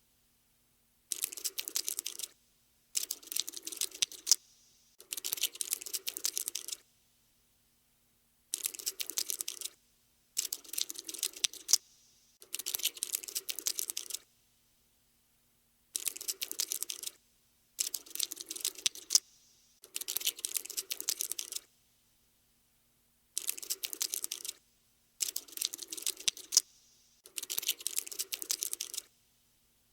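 Rapid dry clicking in about a dozen bursts of one to two seconds each, separated by silences: a skittering sound effect for a scuttling cockroach.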